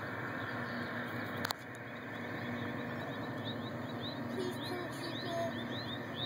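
Small birds chirping: a quickening run of short, high chirps from about three seconds in, over a steady background hiss. A single sharp click about a second and a half in.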